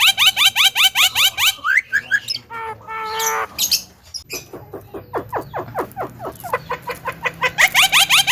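Javan myna (jalak kebo) calling loudly: a fast run of rising chirps, about seven a second, broken about two seconds in by a few gliding notes and a short held call, then the rapid chirping starts again and grows stronger near the end.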